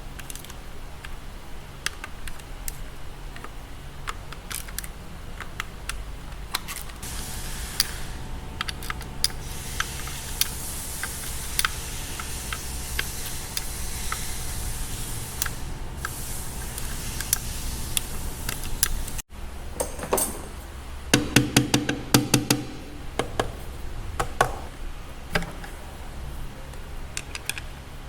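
Hand tools and metal parts of a BMW S1000RR engine clicking and knocking as it is taken apart, with a quick run of louder ringing metal clinks about three quarters of the way through.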